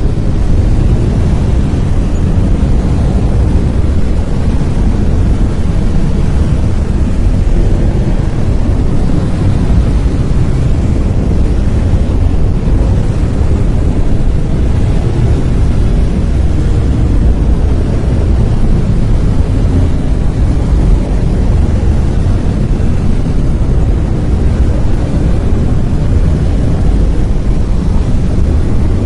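Brown noise: a steady, deep rumbling hiss, strongest in the bass and falling off toward the treble, unchanging throughout.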